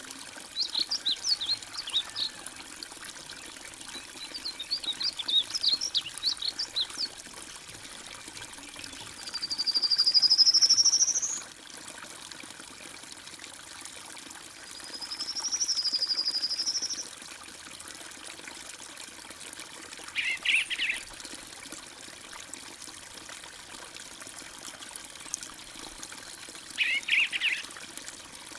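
Steady trickle of pouring water with birds calling over it: quick chirps, two long rising whistled calls, and a couple of short bursts of chirps near the end.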